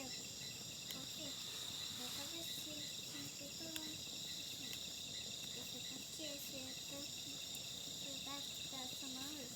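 Steady high-pitched chorus of night insects, with a few faint clicks and faint low voice-like sounds in the background.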